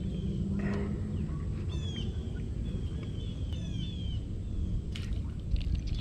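Small birds chirping in quick runs of short, high, downward-sliding notes, over a steady low rumble.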